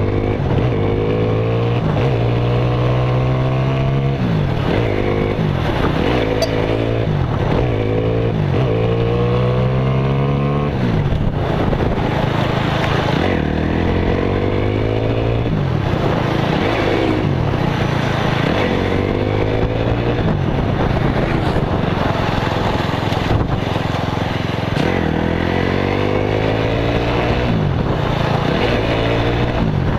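Motorcycle engine running under way, its pitch rising and falling again and again as the revs climb and drop.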